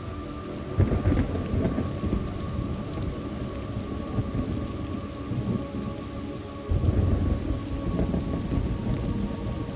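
Thunderstorm: steady rain falling, with low thunder rumbling up about a second in and again louder near seven seconds.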